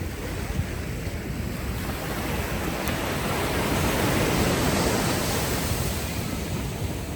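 Ocean waves washing ashore on a beach: a steady wash of surf, with one wave swelling to its loudest about four to five seconds in and then easing back.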